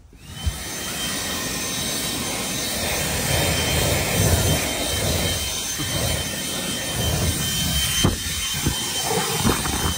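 Leaf blower starting and running: a whine rises as the motor spins up, then holds steady over a loud, even rush of air.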